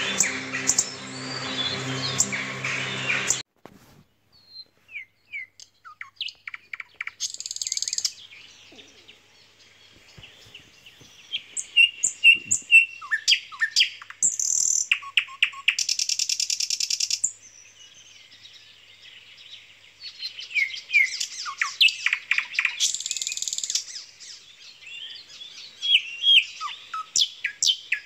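Background music that cuts off suddenly about three seconds in, then songbirds chirping and singing: short whistled notes and several fast, rattling trills.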